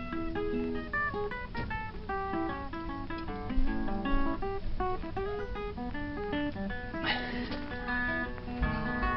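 Background music: an acoustic guitar plucking a quick run of notes.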